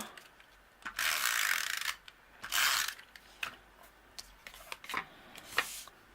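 Snail adhesive tape runner rolled across card stock with a ratcheting whir, in two strokes (a longer one about a second in, a short one a second later), followed by a few light clicks and taps.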